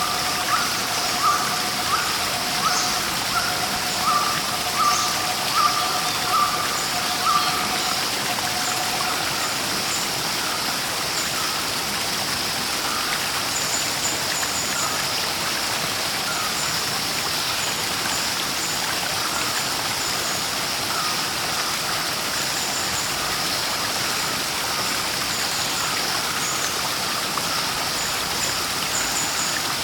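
Flowing water rushing steadily, with birds calling over it: a call repeated about every 0.7 s for the first eight seconds or so, and short high chirps throughout.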